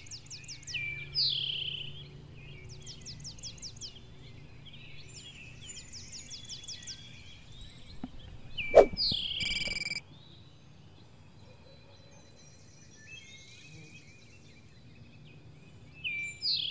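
Bird calls over a steady outdoor background: fast high trills and a falling chirp that comes back several times. About nine seconds in there is one sudden loud thump, the loudest sound, followed by a brief bright tone, and the chirp and tone come again near the end.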